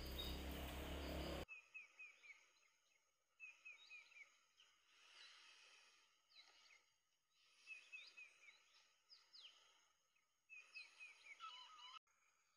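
Faint bird chirping: short, falling chirps in quick runs of three to five, repeating every second or two. It starts after a loud rushing noise that cuts off abruptly about a second and a half in.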